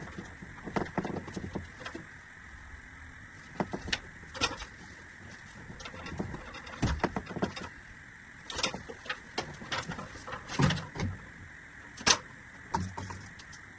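Plastic drain stack pipe being knocked and scraped as it is worked into a pipe fitting: irregular knocks and short scrapes, the sharpest about twelve seconds in.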